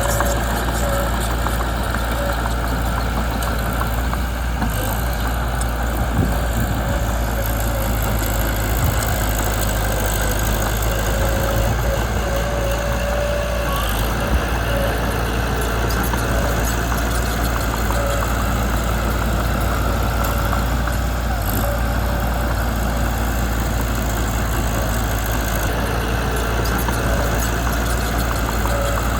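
Mitsubishi BD2 bulldozer's diesel engine running steadily at an even pitch, with a few light knocks here and there.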